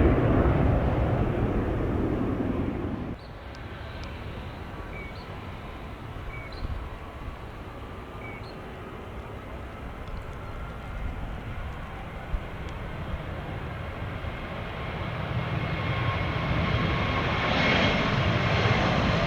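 Jet airliner engine noise: a loud low rumble that drops away abruptly about three seconds in, a quieter steady rumble, then a rushing jet sound building up again toward the end as another airliner approaches.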